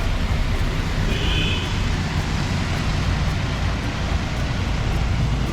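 Road traffic on a rain-wet street: a steady wash of tyre and engine noise with a low rumble. A brief high-pitched squeak sounds about a second in.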